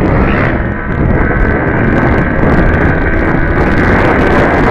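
Yamaha WR155's single-cylinder engine running at full throttle during a top-speed run, its pitch held steady at high revs, with heavy wind rushing over the microphone.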